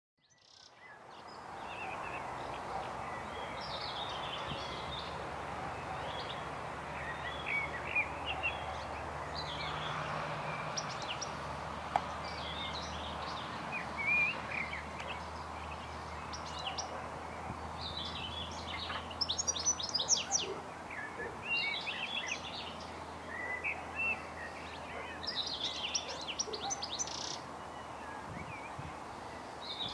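Several wild birds singing and chirping in short phrases over a faint steady low background hum.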